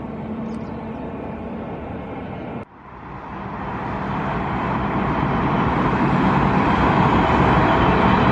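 Jet airliner engine noise. A steady rumble breaks off suddenly a little under three seconds in, and then a jet's engines build up, growing steadily louder as the aircraft draws near.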